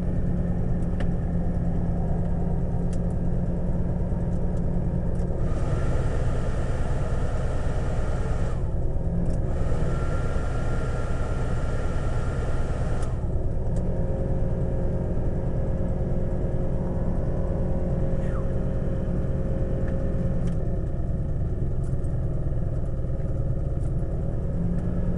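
1989 Jeep Grand Wagoneer's AMC 360 V8, carbureted, running steadily on fast idle while it warms up from a cold start, heard from inside the cab. For several seconds in the middle a steady hiss with a faint whine sits over the engine, with a short break in it.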